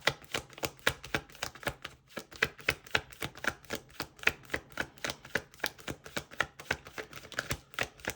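A deck of tarot cards being shuffled by hand: a quick, even run of light card clicks, about five or six a second, with a brief break about two seconds in.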